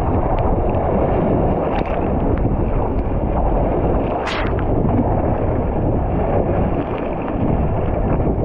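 Wind buffeting the camera microphone: a steady low rumble, with a brief hiss about four seconds in.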